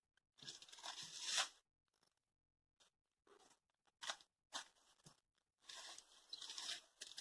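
Dry palm leaves and brush crunching and rustling in several short bursts as they are handled, with near-silent gaps between.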